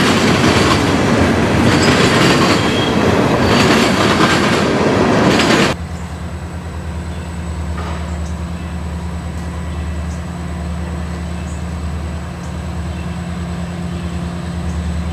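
Freight train rolling past close by, with loud wheel noise and rail clickety-clack. About six seconds in the sound cuts off abruptly, replaced by a quieter steady low hum.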